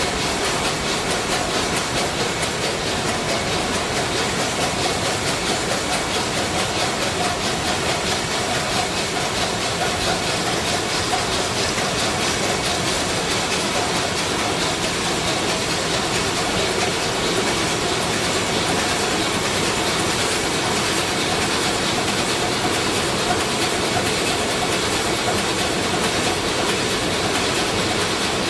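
Sulzer 12RTA96C twelve-cylinder two-stroke marine diesel main engine running steadily at 70 rpm, heard in the engine room as a dense, even, rapid clatter with hiss.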